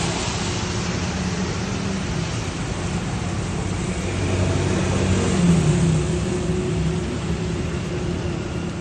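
Road traffic with a vehicle engine passing, its hum swelling about four to six seconds in, over a steady hiss.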